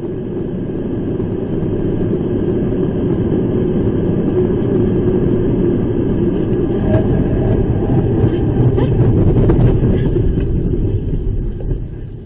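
Steady road and engine rumble of a moving vehicle, with a few faint clicks in the second half.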